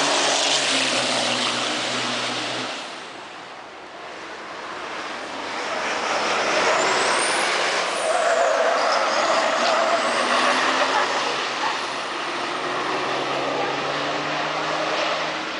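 Formula Truck racing trucks' turbo-diesel engines passing at speed: one truck's engine note fades out about three seconds in, then another builds up loud through the middle and carries on to the end.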